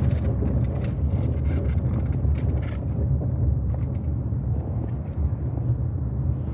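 Car driving along a road: a steady low rumble of engine and tyres, with a few light knocks or rattles in the first three seconds.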